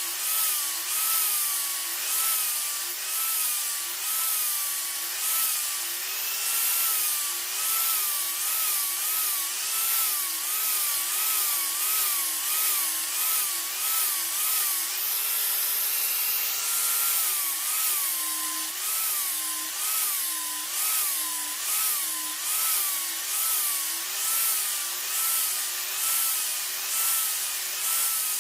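Rhythmic back-and-forth scraping strokes, about two a second, of a saw or file working the steel of a knife blank. A ringing tone rises and falls with each stroke and holds steady for a couple of seconds near the middle.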